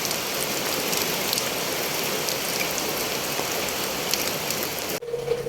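Steady rain falling, with scattered drops striking a surface. The rain cuts off abruptly near the end, giving way to a steady hum.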